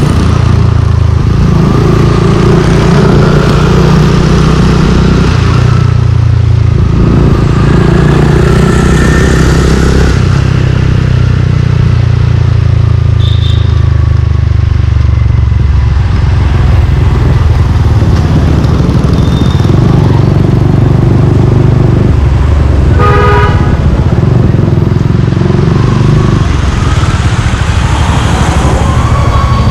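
Suzuki Gixxer 155's single-cylinder engine running under way, its pitch stepping up and down with throttle and gear changes. A short vehicle horn beep sounds about three quarters of the way through.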